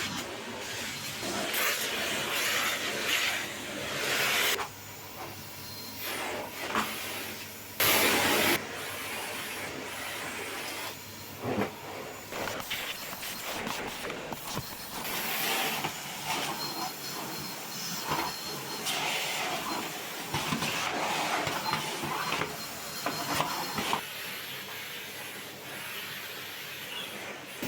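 Household cleaning work: uneven hissing and rubbing noise in bursts of a second or more, with occasional short knocks and clatters.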